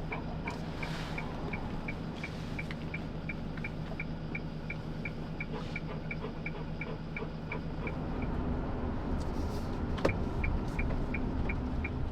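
Steady engine and road hum inside a vehicle, with an even ticking of about three clicks a second, like a turn-signal indicator. The ticking stops for about two seconds near the end and then starts again after a single sharp click.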